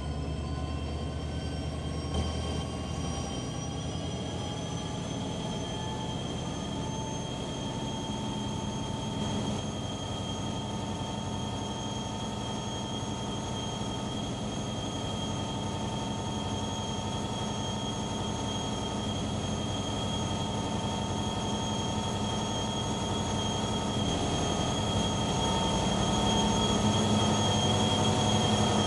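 Passenger train approaching on the rails, its wheels squealing in several high, steady tones over a rumble that grows louder over the last few seconds.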